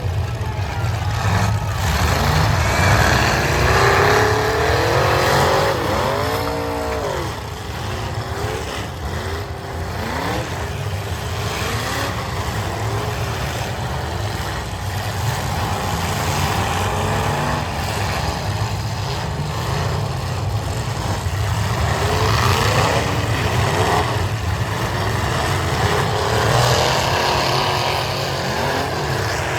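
Several demolition derby cars' engines running and revving hard together, their pitch rising and falling over a steady low drone, with scattered knocks in between.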